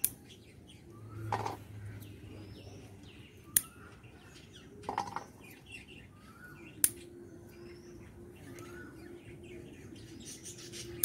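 A bird calls over and over, a short rising chirp about once a second. Three sharp clicks of garden scissors snipping green chilli stems stand out above it.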